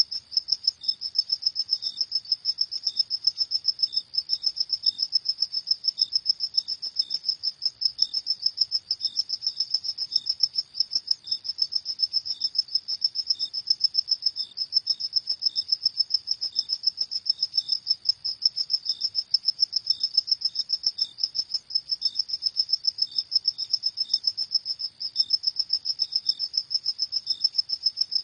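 Crickets chirping in a rapid, regular pulsing rhythm, with a fainter cricket chirping at a slightly lower pitch at irregular intervals beneath.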